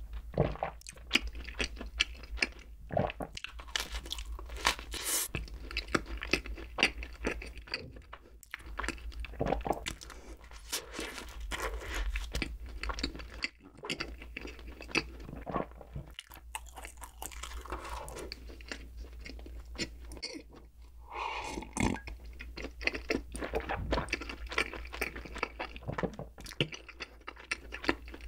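Close-miked chewing of a soft cream-filled bread bun, full of wet mouth clicks and smacks.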